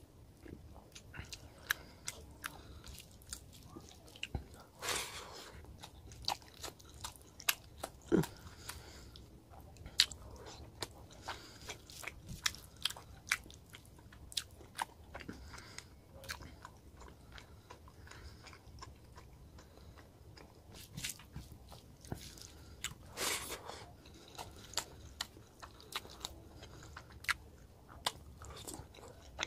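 Close-miked mouth sounds of a man eating rohu fish curry and rice by hand: wet chewing with frequent sharp lip smacks, and two longer, louder wet noises about five seconds in and again about three-quarters of the way through.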